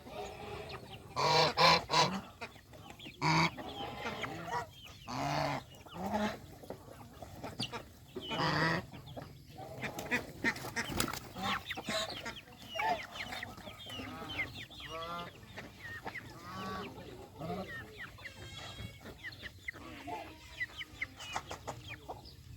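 Farmyard poultry calling: geese honking loudly several times in the first nine seconds, over continual clucking of chickens.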